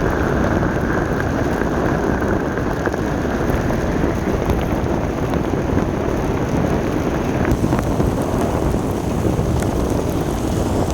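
Steady rushing noise of a vehicle travelling in rain, with the low rumble of motion and the hiss of rain and wind.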